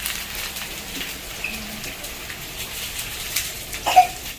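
Chicken and beef sizzler dishes sizzling on their hot plates: a steady hiss with scattered crackles and spits, and a brief louder sound near the end.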